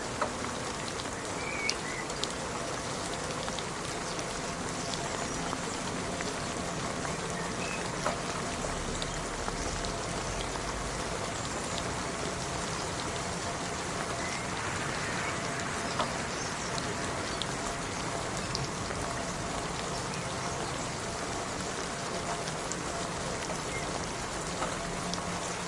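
Steady rain falling, a constant hiss with scattered louder drops ticking now and then.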